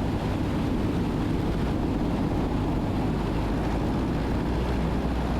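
Cabin noise of a Cessna 172N Skyhawk on final approach: the four-cylinder engine and propeller running steadily at reduced power, with airflow noise.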